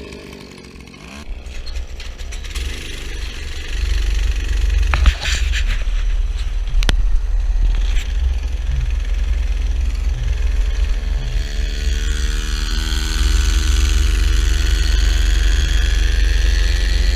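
Mini bike's small engine running while it is ridden, getting louder over the first few seconds, under a heavy low rumble, with a few sharp clicks in the middle.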